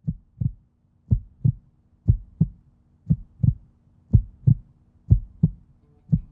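Heartbeat sound effect: double 'lub-dub' thumps about once a second, steady in pace, over a faint low drone.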